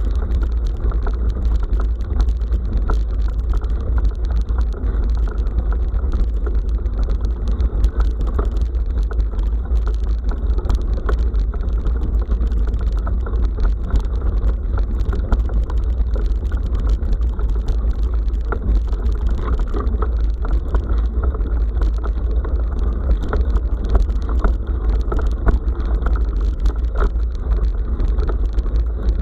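Bicycle riding over a dirt forest road, heard through an action camera's microphone: a steady low wind rumble with tyre noise and frequent small rattling clicks from the bike.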